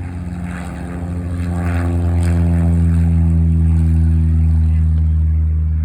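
Piper Cherokee Warrior's four-cylinder Lycoming piston engine and propeller at full takeoff power, growing louder from about a second in and easing a little near the end, its pitch drifting slightly down as the plane goes by.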